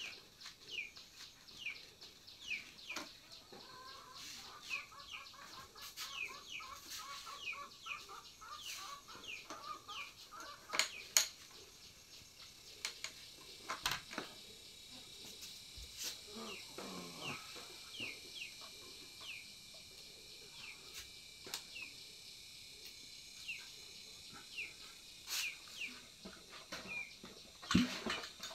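Birds chirping over and over in short falling chirps, with scattered clicks and knocks from handling a new petrol brush cutter. Near the end comes a single pull on the brush cutter's recoil starter cord, and the engine does not catch.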